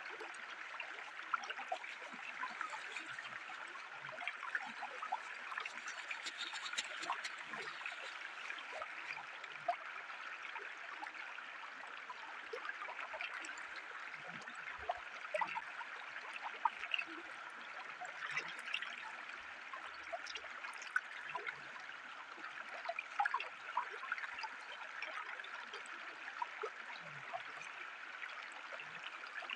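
Shallow forest river flowing with a steady trickling, broken by scattered small splashes and clicks.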